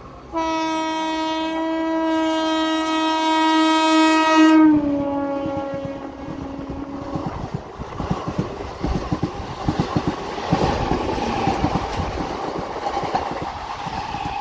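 Horn of an oncoming Indian Railways EMU train blowing one long blast that drops in pitch as the train draws level. Then the rush and rapid wheel clatter of its coaches passing close by at speed.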